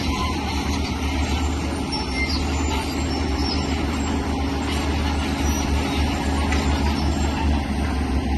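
Heavy diesel engine of an earthmoving machine, a bulldozer or excavator, running steadily with a deep, even drone.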